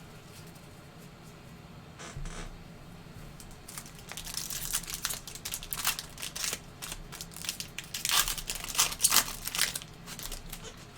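Foil trading-card pack wrapper being torn open and crinkled, in a run of sharp crackling rustles that starts after a short rustle about two seconds in and is loudest near the end.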